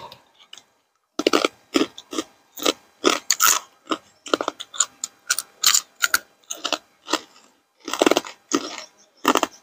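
Raw vegetables and green papaya salad being chewed close to a clip-on microphone: crisp, irregular crunches, about two or three a second.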